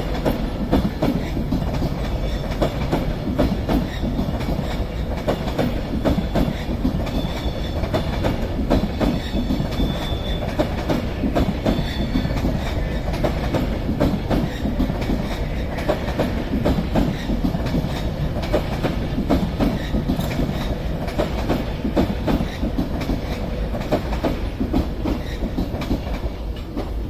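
Avanti West Coast Class 390 Pendolino electric train pulling out and rolling past, a loud steady run of wheels clattering over the rail joints with a faint steady whine.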